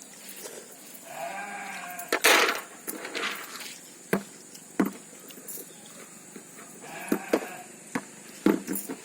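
A bleating farm animal calls twice, once about a second in and again near seven seconds, each a wavering pitched bleat. Between them come short sharp smacks and clicks of eating, the loudest just after the first bleat.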